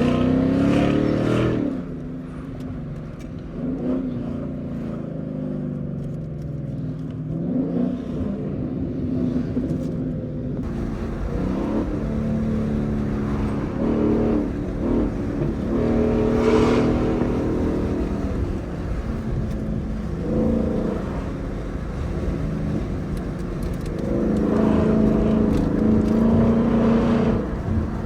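2015 Ford Mustang GT's 5.0-litre V8 with an aftermarket exhaust, driving under way. It revs up hard at the start, then runs at a steadier cruise, its note rising and falling, and pulls louder again near the end.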